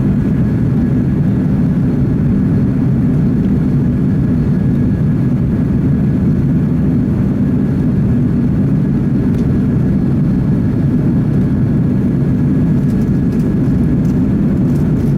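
Airbus A330 jet engines and airflow heard from inside the passenger cabin in flight, a steady, even, low-pitched noise with a faint thin hum above it.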